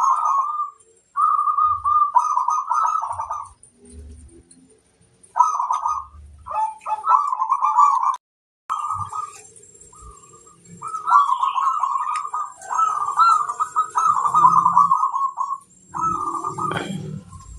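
Zebra dove (perkutut) cooing in trilled, rippling phrases, several in a row with short pauses between them.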